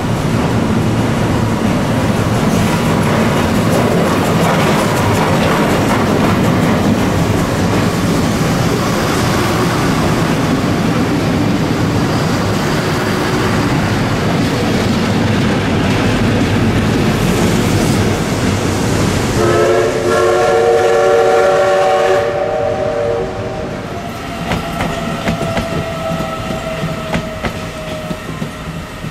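Trains passing close by on the rails: steam locomotive CK124 approaching, then an electric commuter train rolling past with wheels clattering over the track. About twenty seconds in a train horn sounds a chord of several notes for about three seconds, followed by a fainter, steady horn tone lasting a few seconds.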